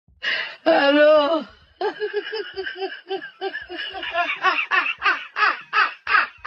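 A person laughing in a long run of short, quick, falling 'ha' bursts, about four to five a second, after a brief spoken 'Ano?' about a second in.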